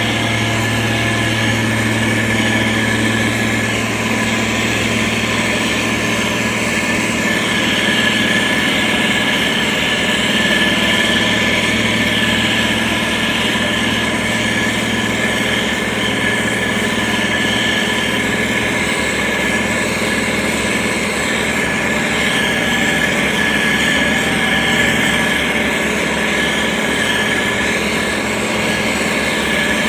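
SANY STG190C-8S motor grader's diesel engine running steadily under work, with a steady high whine over the engine's hum.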